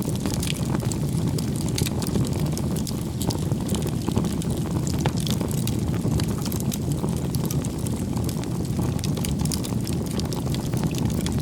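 Campfire burning: a steady low rumble of flames with frequent sharp, irregular crackles and pops from the burning wood.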